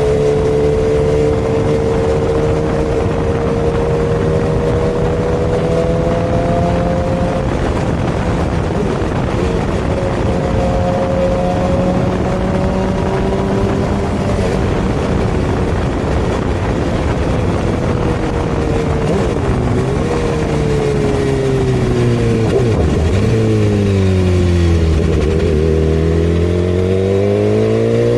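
Superbike engine running steadily at cruising speed, its note rising slowly at first. In the last third the engine note drops and then climbs again as the bike accelerates.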